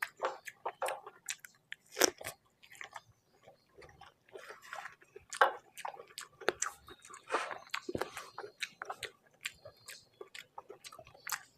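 Close-miked eating of rice and fish curry: chewing with many short, sharp mouth clicks and smacks, a few of them louder, about two, five and a half and eight seconds in.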